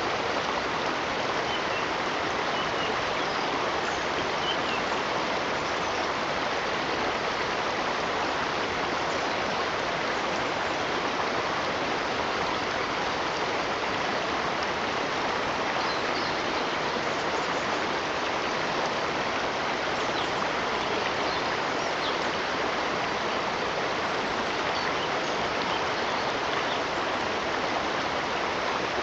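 Stream water running steadily, an even rushing hiss with no breaks, with a few faint, brief high sounds now and then.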